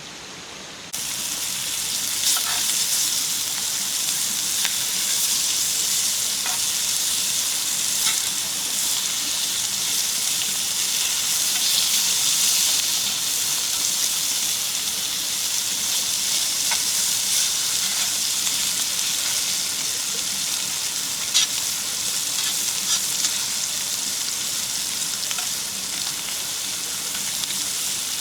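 Food sizzling hard in a hot pan: a steady hiss with occasional sharp pops, starting abruptly about a second in.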